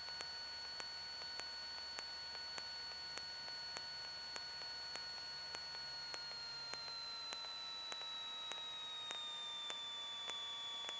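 Cessna 152 cockpit audio heard through the intercom: a steady high-pitched whine that glides lower in pitch from about six seconds in, over faint even ticks about one and a half a second.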